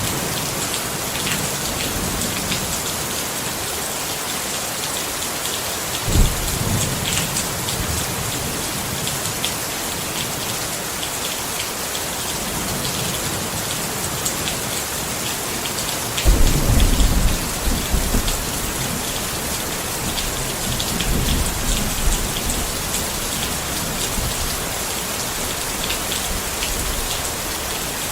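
Rain falling steadily on a tent, a continuous hiss dotted with the ticks of single drops. Low rumbles of thunder come in twice: briefly about six seconds in, and longer and louder about sixteen seconds in.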